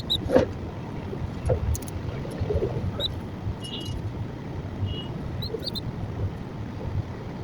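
A few short, high bird chirps scattered over a steady low background rumble.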